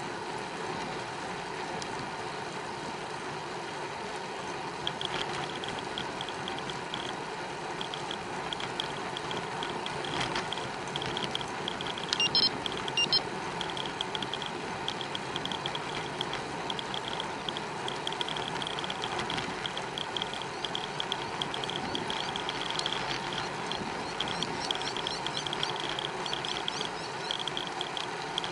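Riding noise of a road bicycle recorded on the bike: steady rolling and wind noise with a rapid, on-and-off ticking, and a brief sharper high sound about twelve seconds in.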